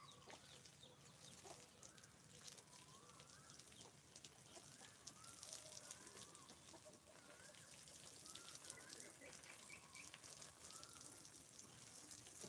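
Faint bird calls: short notes that rise and fall, repeated about once a second, over a faint hiss of water spraying from a garden hose.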